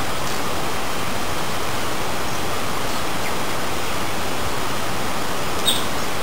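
Steady, even rushing noise with no change in level; a brief faint click about five and a half seconds in.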